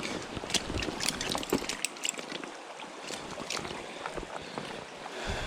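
Creek water running steadily, with a string of irregular sharp clicks and taps through it.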